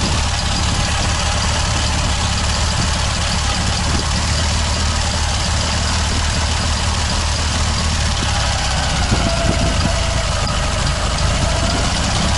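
Homemade buggy's Dnepr MT motorcycle engine idling steadily under electrical load from its lights and turn signals, its stock generator still charging the battery at about 14 V.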